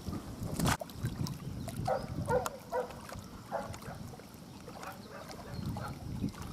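A sharp knock just under a second in, then a run of five or six short animal calls, about two to four seconds in.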